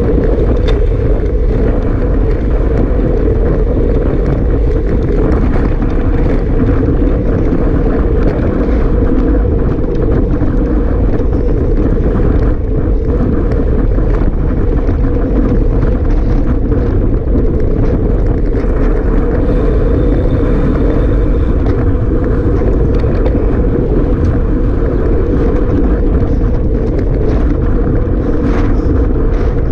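Strong wind buffeting the microphone: a loud, steady rumbling rush that never lets up.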